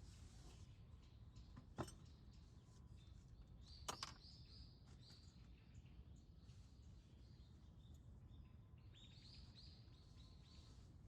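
Faint small birds chirping, many short high chirps scattered through, over a low steady outdoor hum. Two sharp clicks stand out, about two and four seconds in.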